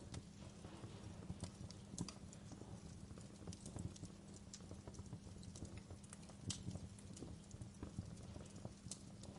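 Quiet wood fire in a fireplace, crackling: irregular sharp pops and snaps of burning logs over a steady low rumble of the flames.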